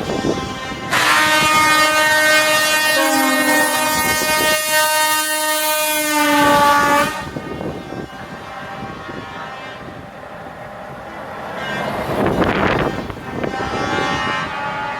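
Truck's multi-tone air horn sounding a loud chord for about six seconds, starting about a second in, its notes shifting partway through. After it comes the noise of a passing truck, and horn tones start again near the end.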